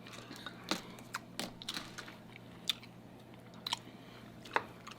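Chewing and mouth smacking while eating shellfish, heard as a scattering of short sharp clicks with a few louder ones.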